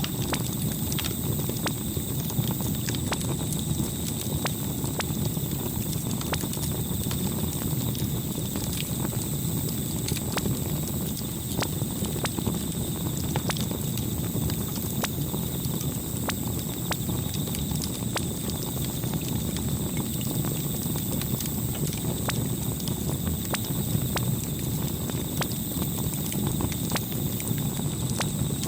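Campfire crackling: a steady low rustle of burning wood with frequent sharp pops and snaps scattered throughout.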